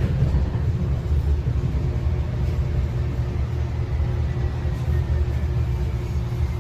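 UTA light-rail train running, heard from inside the car: a steady low rumble with a hum. From about four seconds in, a faint whine falls slowly in pitch.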